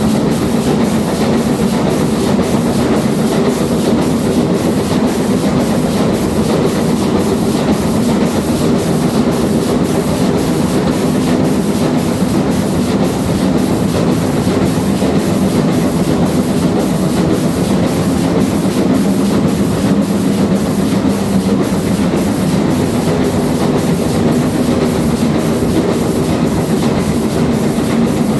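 Steam train hauled by GWR Castle-class locomotive 4079 Pendennis Castle running steadily: a continuous rumble with a regular clatter of wheels on the rails.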